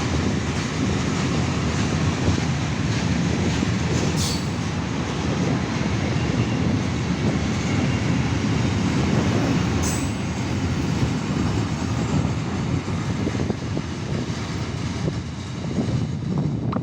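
Train running past on the rails, a steady loud rumble of wheels and cars, with a brief high squeal about ten seconds in.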